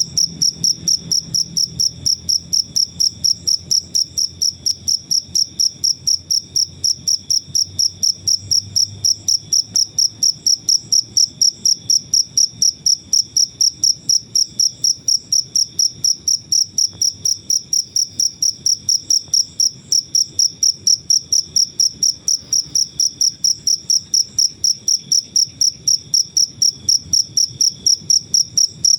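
A cricket chirping steadily, a high-pitched pulsed chirp repeating about three times a second without pause.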